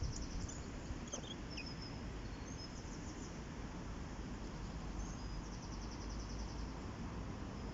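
Small songbirds giving a few short, high, rapid trills and chirps over the steady low rush of river water.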